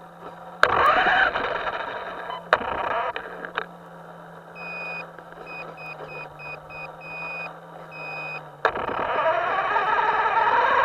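A run of short electronic beeps in an uneven on-off pattern, over a steady low hum, with a few sharp clicks before it.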